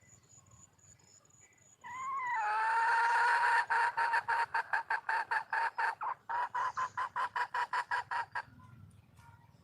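Junglefowl hen calling: a short rising note, then a long run of fast, evenly spaced clucks at about four a second, with a brief pause midway. This is the hen's call for a mate.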